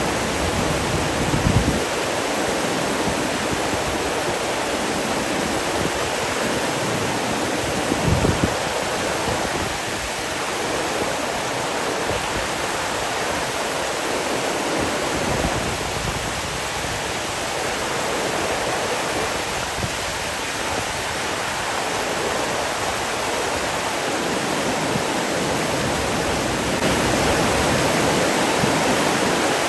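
Steady rushing of flowing water, an even hiss, with two brief low thumps about a second and a half and eight seconds in.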